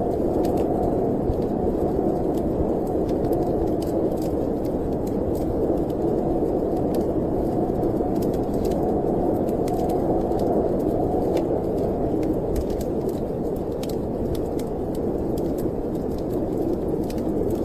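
Steady wind of a snowstorm blowing in a low, even rush, with scattered small crackles and pops of a wood fire burning in a fireplace.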